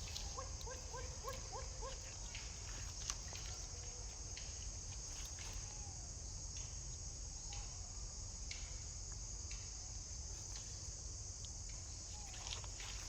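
Steady high-pitched insect chorus of crickets or cicadas over a low rumble. A quick run of about seven short chirps comes in the first two seconds, with scattered small clicks throughout.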